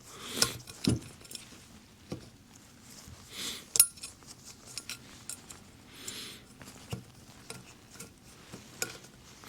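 Small metallic clicks and clinks of fuel injectors and their retaining clips being handled and fitted by hand, with one sharp click a little under four seconds in.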